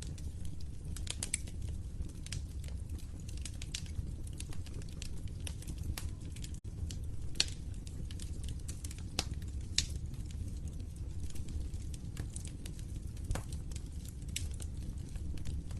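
Wood fire crackling in a fireplace: irregular sharp pops and snaps over a steady low rumble of burning, with the sound cutting out for an instant about six and a half seconds in.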